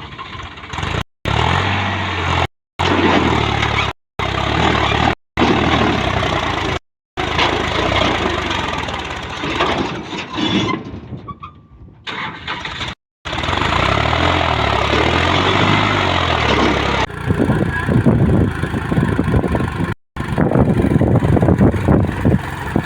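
New Holland 3600-2 TX tractor's diesel engine running and revving up and down. It is broken by several sudden, brief cuts to silence.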